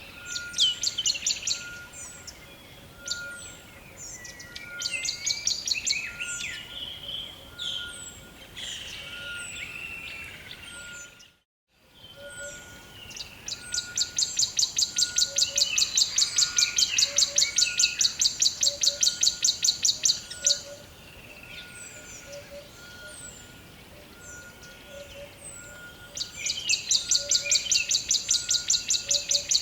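Rainforest ambience: many birds chirping and calling, with a loud, fast, evenly pulsing trill that runs for several seconds twice, over a steady series of repeated lower notes. The sound cuts out to silence for about half a second near the middle.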